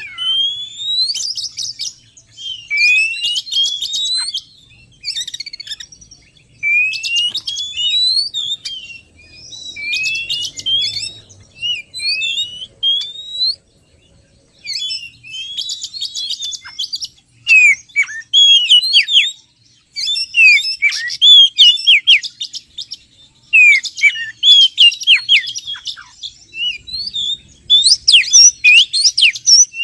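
Oriental magpie-robin (kacer) singing: phrases of loud rising whistles, then quick runs of sharp falling notes in the second half, with brief pauses between phrases.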